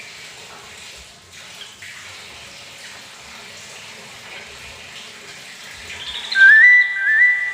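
Bathroom tap water running steadily. About six seconds in, a yellow-vented bulbul breaks into loud song: two short phrases of notes stepping upward.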